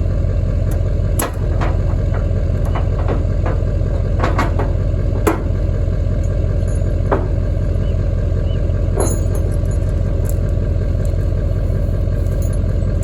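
Engine idling steadily with a low hum, with scattered metallic clicks and clanks over it, typical of a tractor being unloaded from a trailer.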